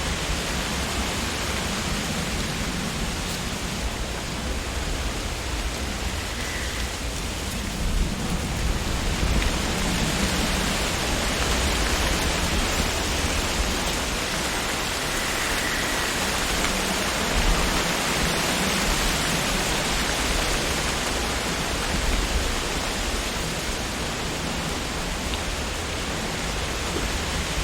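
Wind blowing through tree leaves: a steady rustling hiss with a low rumble underneath, swelling about eight seconds in and easing a little near the end.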